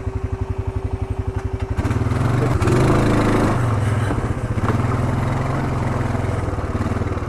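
ATV engine putting along with an even pulse, then running louder under throttle from about two seconds in, its pitch wavering as the quad rides on.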